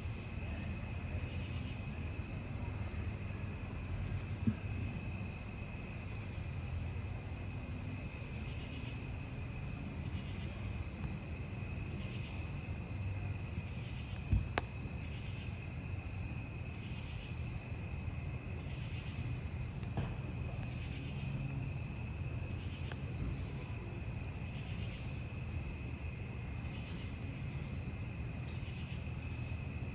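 Crickets trilling steadily, with a higher chirp pulsing every second or so, over the low sound of a wood campfire burning. A few sharp pops from the burning wood stand out.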